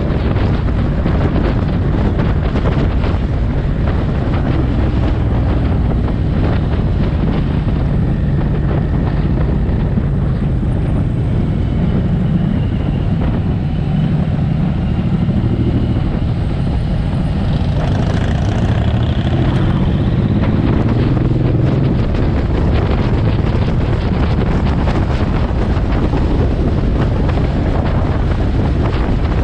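Suzuki M109R's big V-twin engine running under way, its low note rising and falling with the throttle, under heavy wind rush on the microphone.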